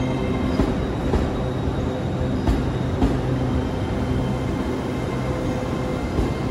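LNER Azuma Class 801 electric train moving along the platform: a steady running rumble with a constant electric hum, and a few light knocks from the wheels.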